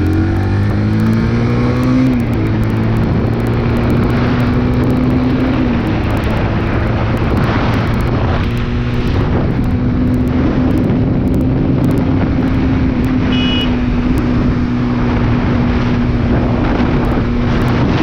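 Motorcycle engine under way on the road. It rises in pitch as it accelerates over the first two seconds, then holds a steady note at cruising speed, with constant wind and road noise.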